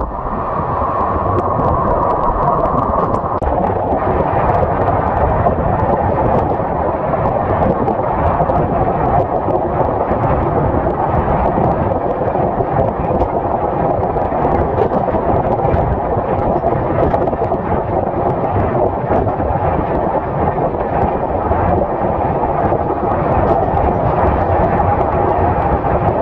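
Continuous loud rumbling roar of a moving passenger train's running noise, played back at double speed. It is a dense, even rumble with no distinct beats, and it starts and stops abruptly.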